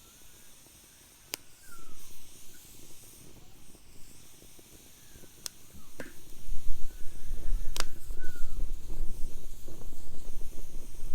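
Wood fire burning in a fire pit, with a few sharp pops from the burning wood over a soft hiss. A low rumble comes in a little past halfway and stays loud to the end.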